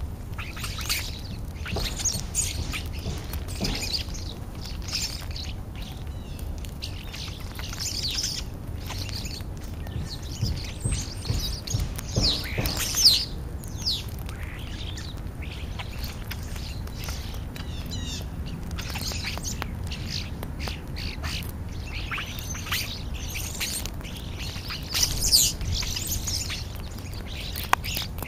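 European starlings calling at a feeding spot: scattered short whistles, chirps and squawks, many sliding down in pitch, with a louder burst about halfway through and another near the end, over a steady low rumble.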